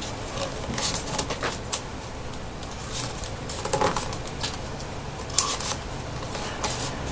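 Folded paper origami triangle pieces rustling and crinkling in irregular short crackles as they are handled and pushed into the pockets of a 3D origami model.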